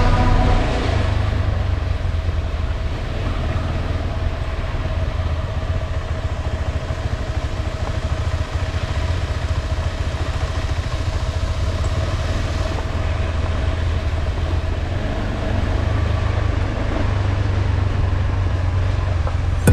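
Trail motorcycle engine running at a steady, even pace with a low rumble and a steady whine above it.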